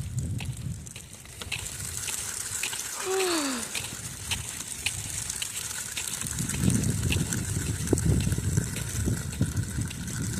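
Wind buffeting the microphone in gusts, heaviest in the second half, with evenly spaced short clicks about twice a second, in step with walking on ice. About three seconds in comes one short falling tone.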